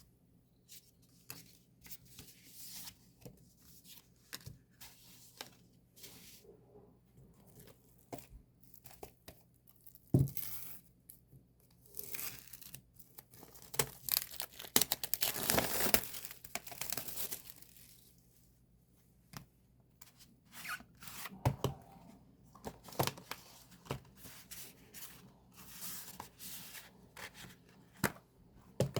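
Packaging being torn open and crinkled by hand while unboxing a music album. Short rustles and clicks come throughout, with the longest and loudest stretch of tearing in the middle.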